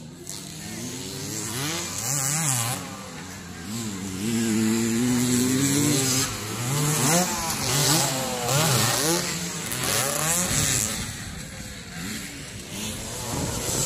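Motocross dirt bike engines revving and accelerating, their pitch rising and falling again and again as the bikes race.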